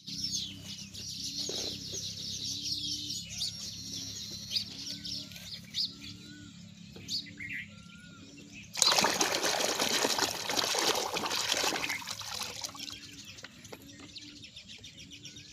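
Birds chirping and calling in short, repeated calls, with a louder stretch of rushing noise from about nine to twelve seconds in.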